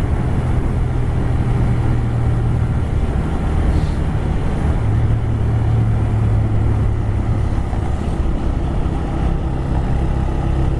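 TVS Raider 125's single-cylinder engine running under way, its note dipping and rising slightly as the throttle changes, with a steady rush of riding wind over the microphone.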